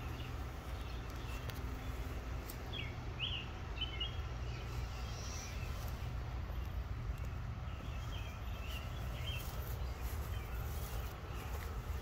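Outdoor yard ambience: a steady low rumble, with two short clusters of bird chirps a few seconds apart.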